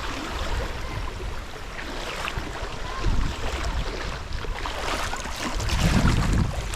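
Wind buffeting an action camera's microphone: a heavy, uneven low rumble with a hiss above it, swelling in gusts around three seconds in and again near the end.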